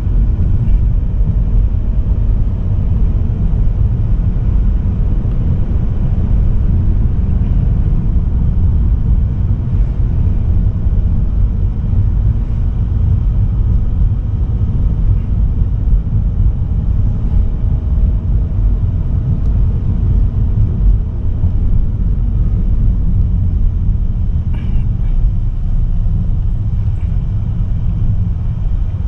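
Car driving at a steady pace: a continuous low rumble of tyre, road and engine noise from a Mazda3 sedan with a 1.8 L SKYACTIV-D diesel, with faint engine tones rising and falling slightly.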